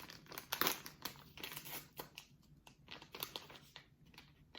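Crinkling paper or plastic wrapper being handled and opened, a string of irregular crackles, as a tablet of Abuelita Mexican hot chocolate is unwrapped.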